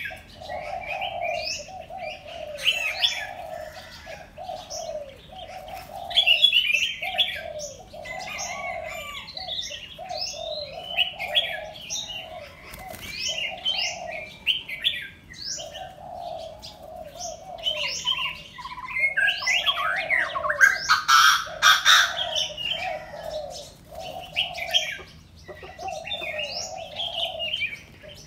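Several birds chirping and calling over one another: quick high chirps and whistles over a lower call repeated about once a second, with a denser, louder run of calls around twenty seconds in.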